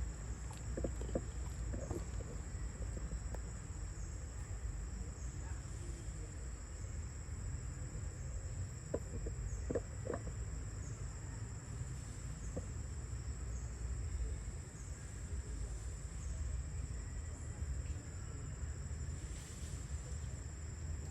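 A steady, high-pitched insect drone over a constant low rumble, with a few faint knocks.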